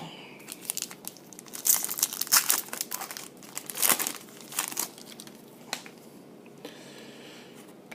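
Trading-card pack wrappers and cards crinkling and rustling as they are handled, in irregular bursts that die down about six seconds in.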